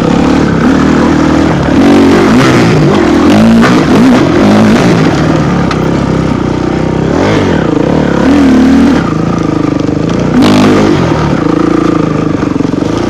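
Dirt bike engine revving hard, its pitch rising and falling again and again as the throttle is opened and closed, with several louder surges.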